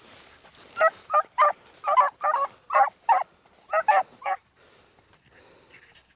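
Beagles giving short, rapid chop-mouth barks while running a rabbit track, about a dozen barks in quick succession over the first few seconds, then easing off near the end.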